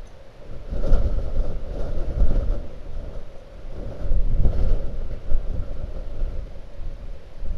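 Blizzard wind buffeting the microphone: a low, rumbling noise that swells in strong gusts about a second in and again around four seconds in.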